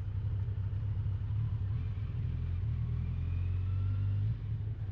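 Kawasaki motorcycle's engine running with a steady low rumble, dipping briefly near the end.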